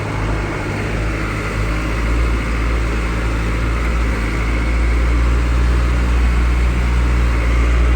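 A truck's engine and road noise heard from inside the moving vehicle: a steady low hum that grows gradually louder.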